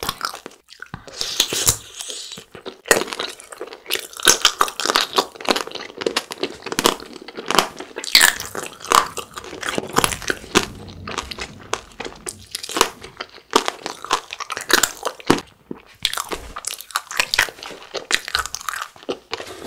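Crunching and chewing of a frozen eyeball jelly tanghulu: the hardened sugar-syrup shell cracking between the teeth in dense, irregular crisp crunches, with the soft jelly chewed underneath.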